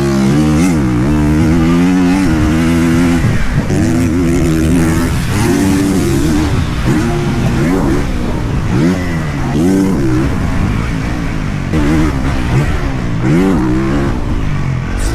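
Motocross dirt bike engine being ridden hard, its pitch climbing and dropping over and over as the throttle is opened and closed.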